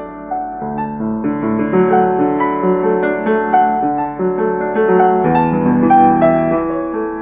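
Background piano music: gentle notes and chords played at an even pace.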